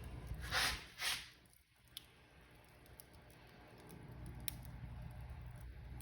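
Wood fire crackling in a fireplace over a steady low rumble, with two louder hissing flares about half a second apart near the start and a few sharp pops.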